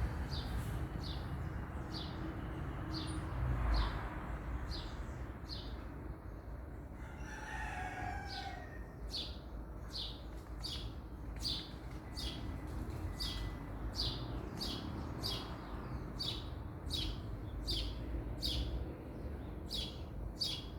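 A bird repeating a short, sharp high call about twice a second, over a low background rumble, with a rooster crowing once in the distance about seven seconds in.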